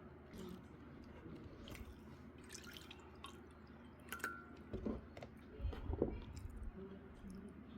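Eating sounds: soft chewing with small scattered clicks of utensils and dishes, and a few dull knocks about five to six seconds in.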